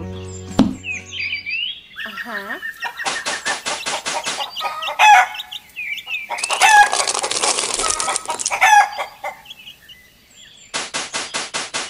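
Chickens: hens clucking and squawking, with three bursts of rapid wing flapping, the last starting near the end.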